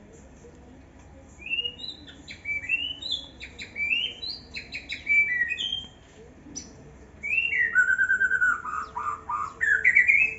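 Young white-rumped shama singing: two phrases of varied whistled notes, the first a run of short rising and falling whistles, the second, about seven seconds in, a falling series that ends in quick rising notes.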